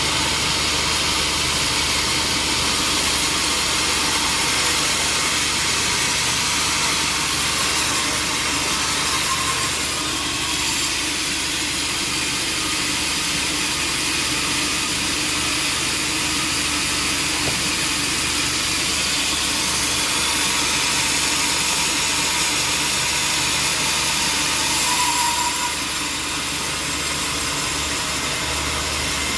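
Sawmill machinery running steadily: a constant low engine hum under a continuous hiss.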